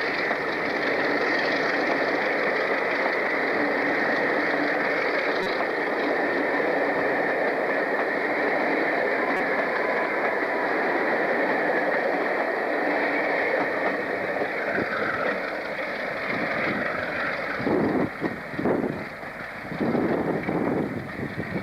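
Train running with a steady noise; in the last few seconds, gusts of wind buffet the microphone.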